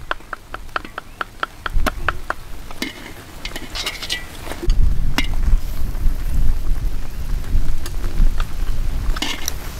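A quick run of sharp clicks, about five a second, for the first two seconds or so. Then braised pig-head pieces sizzling and bubbling in thick sauce in a wok, with scattered crackles.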